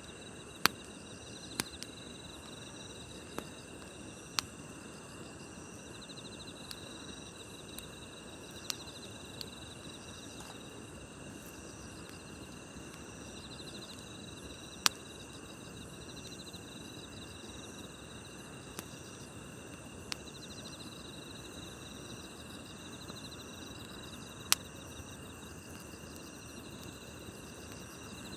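Crickets and other grass insects chirring steadily in layered high trills, over a low crackle of a wood campfire. Now and then the fire gives a single sharp pop: about eight in all, the loudest just after the start, near the middle and near the end.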